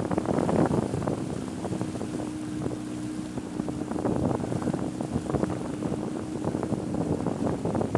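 Water splashing and slapping against the hull of a Laser Radial dinghy sailing downwind, in an irregular stream of small splashes, with wind rushing over the microphone and a faint steady low hum underneath.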